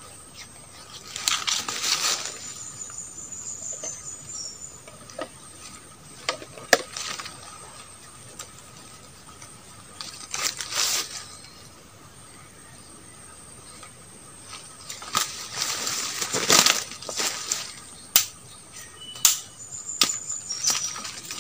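Rustling and crackling of twigs and leaves being handled, coming in three bursts with a few sharp clicks. Underneath runs a steady high drone like forest insects.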